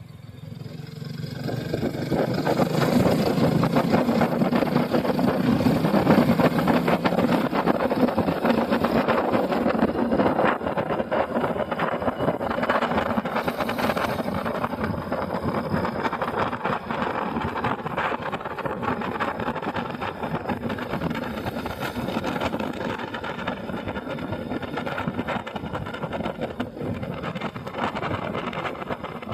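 Motorcycle running while being ridden, with road and air noise; it gets louder over the first two or three seconds, then holds steady.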